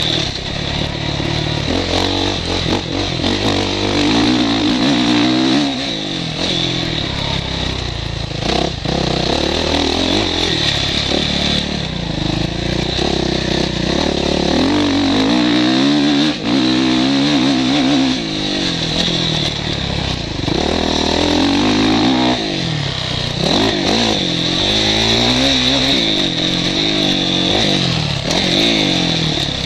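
Motocross motorcycle engine heard from the rider's helmet, revving up and dropping back again and again as the bike accelerates, shifts and slows through the course.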